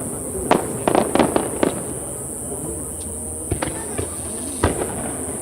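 Aerial fireworks shells bursting overhead: a quick cluster of sharp bangs and cracks in the first two seconds, then two more single bangs, one in the middle and one near the end.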